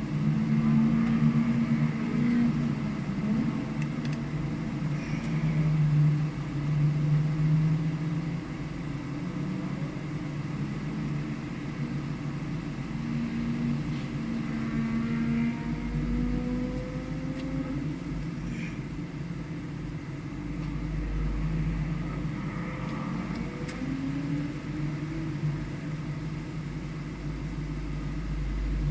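A vehicle engine running at a circuit, its pitch rising and falling repeatedly as the throttle is opened and closed, with a low rumble joining in from about halfway through.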